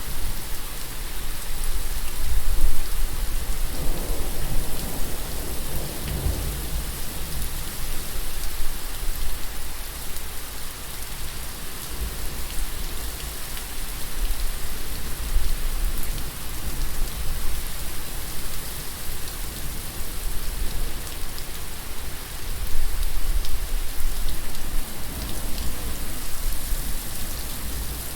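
Steady rain falling, with a low rumble of thunder rolling in about four seconds in and fading a few seconds later.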